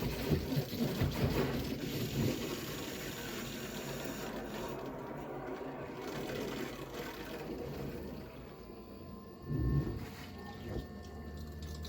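Mains water hissing through a filling loop into a central heating system as it is topped up to 1 bar pressure. The flow noise eases off about eight seconds in.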